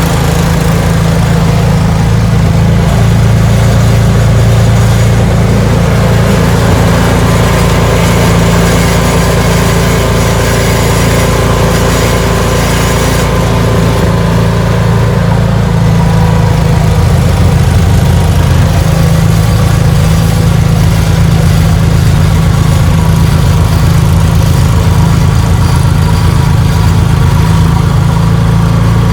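Ariens 624E snowblower engine running steadily and loudly.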